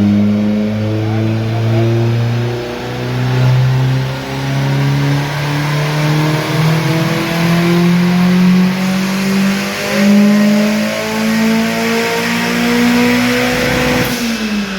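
Turbocharged 2-litre 20-valve four-cylinder engine doing a pull on a chassis dyno. The revs climb slowly and steadily under load, then the throttle comes off and the revs drop near the end. The pull is made gently, with the boost turned down, because the clutch slips.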